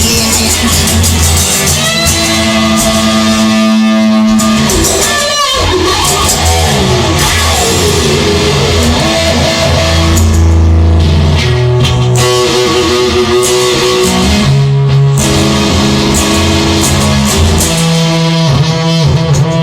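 Instrumental rock music: a guitar-led passage over bass and drums, with a guitar sliding down in pitch about five seconds in.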